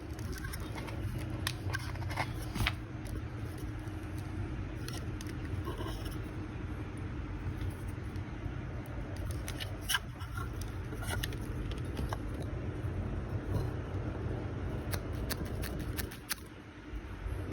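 Light plastic clicks and taps from handling a LEGO Technic car model, scattered irregularly over a steady low hum.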